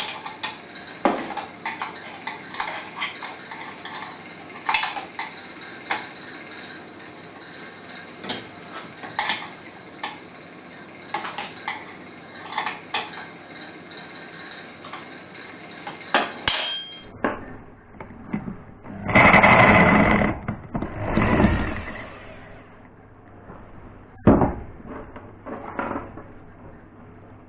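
Clinks, taps and knocks of hand tools on the metal of an old steel pump-station tank being taken apart. The background changes abruptly about two-thirds of the way through, followed by two louder rushing noises of a second or so each and a few more knocks.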